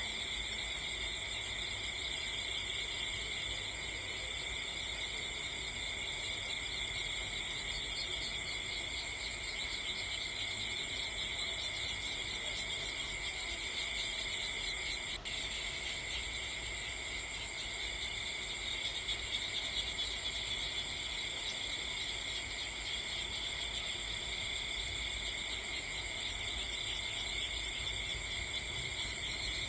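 Steady chorus of crickets, a constant high chirring in several pitch bands, with a single short click about halfway through.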